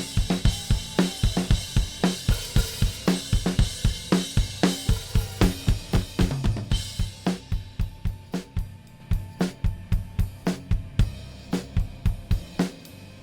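Recorded drum-kit tracks playing back in a steady beat: kick drum, snare, hi-hat and crash cymbals. About halfway through, the cymbal wash thins out and the hits grow quieter as the song winds down.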